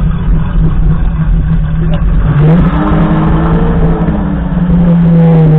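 The rear-mounted BMW 5.0-litre V12 of a Lamborghini Diablo roadster replica idling, quad exhaust. About two seconds in the revs rise a little, hold for a couple of seconds, and settle back to a steady idle.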